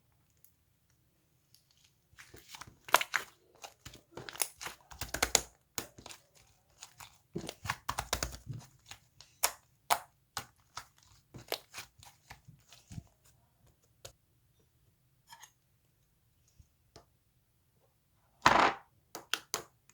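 Irregular clicks, knocks and crinkling, busiest in the first half, with a longer, louder rustle near the end.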